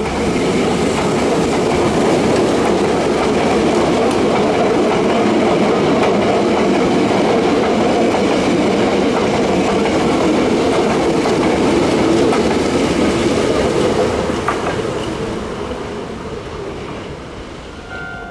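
Hankyu Railway electric train running past, a steady loud rumble of wheels on rail that fades away over the last few seconds.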